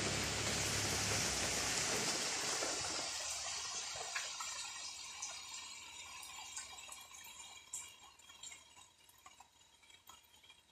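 Steady rain falling on garden foliage, its hiss fading away from about two seconds in until only scattered drips are left near the end.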